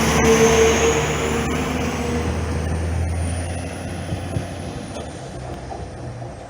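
Class 195 diesel multiple unit pulling out, its underfloor diesel engines running with a steady low drone and a faint high whine. It fades steadily as the train moves away.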